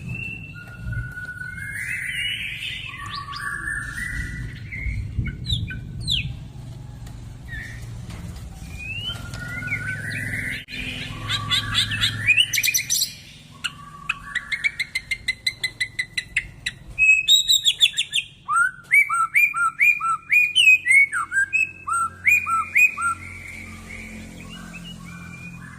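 White-rumped shama (murai batu) singing: varied whistled phrases with rising and falling glides. Then come rapid trills, and near the middle a loud run of quick repeated falling notes, the 'nembak' style of a shama in full song.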